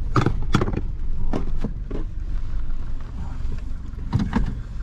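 Vehicle engine rumbling low while the car jolts over rough bush ground, with repeated knocks and rattles from the body and its load.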